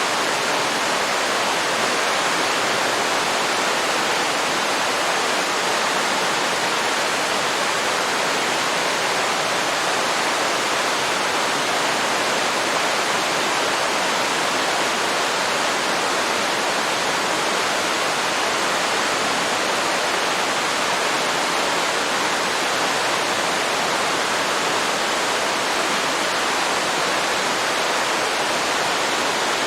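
Waterfall pouring steadily into water: a constant, even rushing with no breaks.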